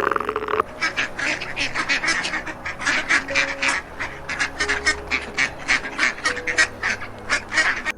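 Animal calls: one longer call, then a rapid, steady run of short honking calls, about four or five a second, over faint background music.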